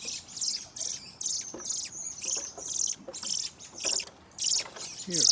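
Small birds chirping: short, sharp, high calls repeated two or three times a second without let-up.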